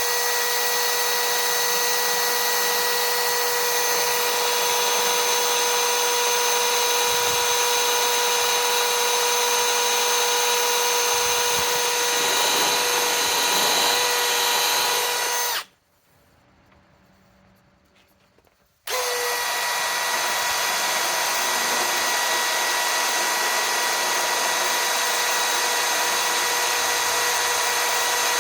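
Milwaukee M12 Fuel hammer drill with a step bit running flat out, a steady high whine at constant pitch. It stops a little past the middle, stays off for about three seconds, then starts up again and runs steadily.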